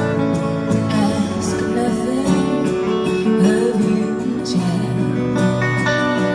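Live band playing an instrumental passage with acoustic guitar prominent, between sung lines of a folk song.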